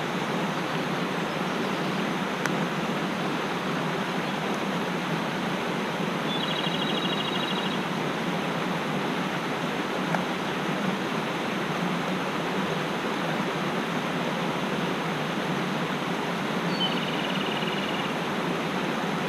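Mountain stream rushing steadily. A small bird gives a short, rapid trill twice, about six seconds in and again near the end.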